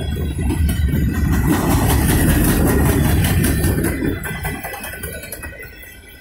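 Freight train cars rolling past on the rails: a loud, low rumble that swells to a peak and then fades away from about four seconds in.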